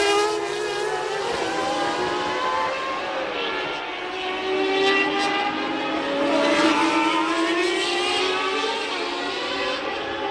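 1989 Formula One racing cars' naturally aspirated 3.5-litre engines at racing speed, several at once. Their overlapping pitches rise and fall as they accelerate and shift gears.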